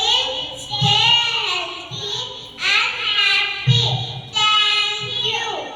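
Children's high voices singing in phrases of about a second each, with a low thud roughly every second or so.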